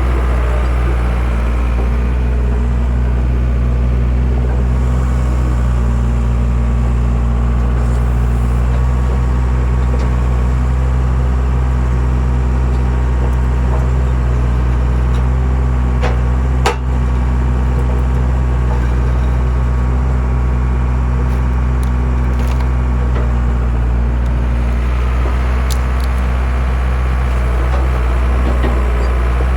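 Skid steer engine running steadily under load, driving a homemade hydraulic log splitter. A single sharp crack about 17 seconds in.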